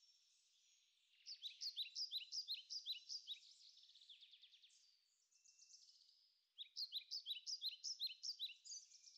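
Songbird singing: a rapid run of short, high, downward-sweeping chirps, about five a second, which stops near the middle and starts again a few seconds later.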